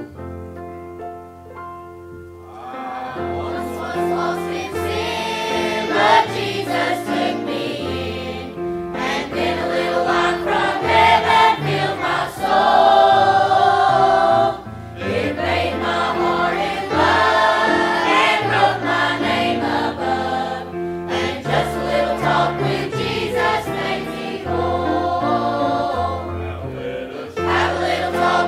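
A congregation or choir singing a hymn with keyboard accompaniment. The keyboard plays alone at first, and the voices come in after about two seconds.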